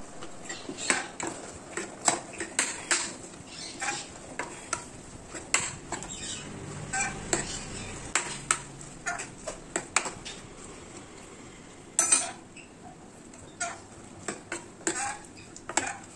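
Metal kitchen utensils clinking and knocking against a cooking pot in a series of irregular sharp clicks, as in stirring or adding greens to the pan.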